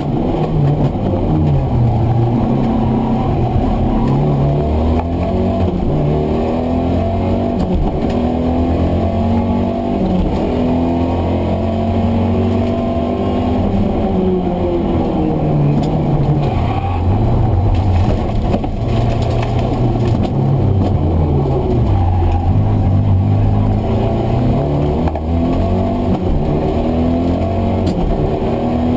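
Mitsubishi Galant VR-4's turbocharged two-litre four-cylinder engine pulling hard, heard from inside the cabin. Its pitch climbs through each gear and drops at every shift and braking point, again and again.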